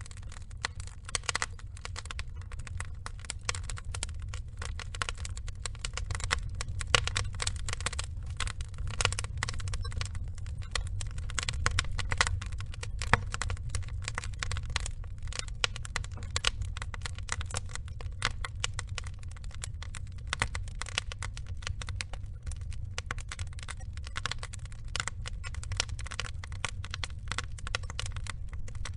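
Wood logs burning in a fire, crackling and popping without pause over a low, steady rumble of flame.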